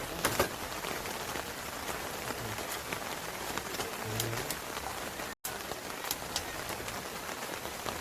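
Steady rain, an even hiss dotted with many sharp individual drop hits. The sound cuts out for an instant about five seconds in.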